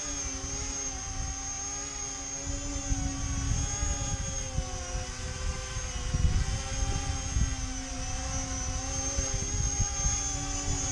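E-flite Convergence VTOL model's brushless electric motors and propellers whining steadily in hover, the pitch wavering slightly as the throttle corrects. Strong wind buffets the microphone with a low rumble.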